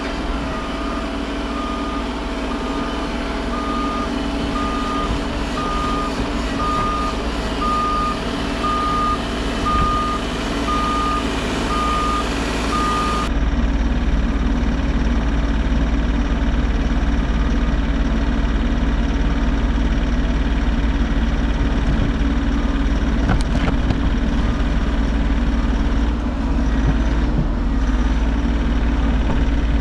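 Bobcat E50 compact excavator's diesel engine running, with its travel alarm beeping about once a second. The beeping stops about halfway through, and the engine keeps running steadily.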